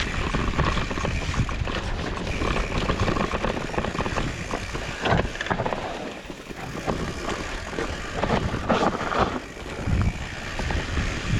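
Fat-tyre mountain bike riding a rough trail: wind buffeting the on-bike microphone over a steady clatter of knocks from the tyres and frame on the ground.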